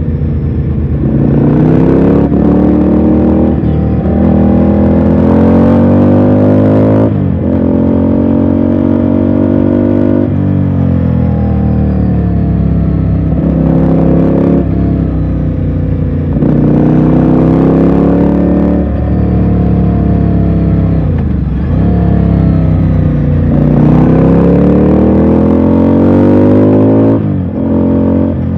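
Ducati Scrambler's air-cooled L-twin engine under way, its note rising under throttle and dropping sharply every few seconds, again and again, with one deeper dip near the end.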